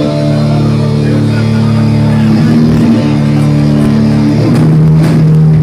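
Live heavy metal band's electric guitars holding long sustained chords, shifting pitch a couple of times, loud.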